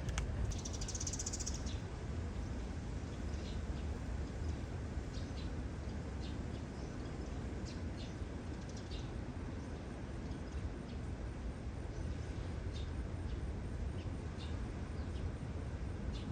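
Seaside ambience: a steady low rumble of wind and sea, with a brief high chirp near the start and faint short chirps and ticks scattered through.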